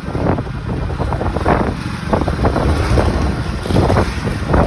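Busy road traffic: a continuous rumble of engines and tyres with vehicles surging past every second or so, and wind buffeting the microphone.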